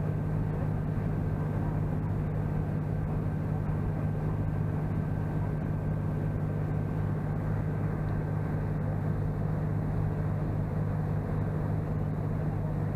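Boat engine running steadily under way, a constant low drone heard from on board.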